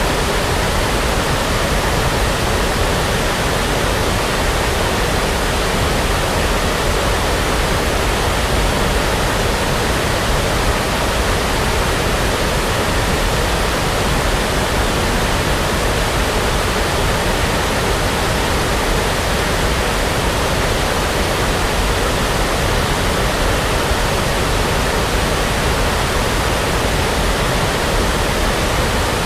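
Steady brown noise: an even, unbroken hiss weighted toward the low end, with no change in level.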